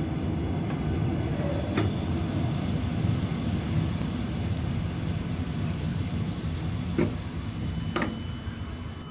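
Steady low rumble of an electric commuter train heard from inside the carriage as it rolls through a station, with a few sharp clacks of the wheels over rail joints or points.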